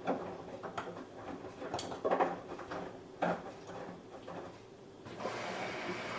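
Samsung Eco Bubble washing machine running: a few knocks and clunks with lighter ticks between them, then about five seconds in a steady rushing noise starts and keeps on.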